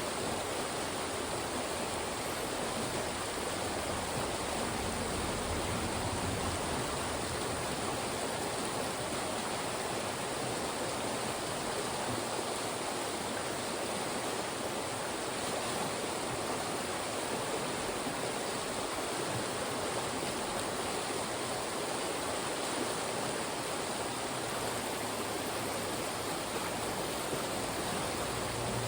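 Fast-moving mountain stream rushing through funnels of rocks: a steady, unbroken wash of water.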